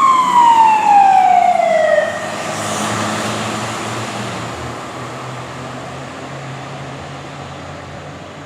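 Fire engine's siren sliding down in pitch and cutting off about two seconds in, then the truck's engine and road noise fading steadily as it drives away.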